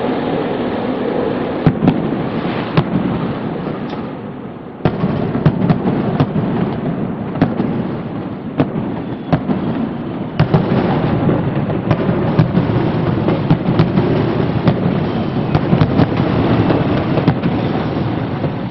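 A fireworks display: many sharp cracks and bangs in quick succession over a continuous low rumble of overlapping bursts. The barrage eases briefly and comes back loud suddenly about five seconds in.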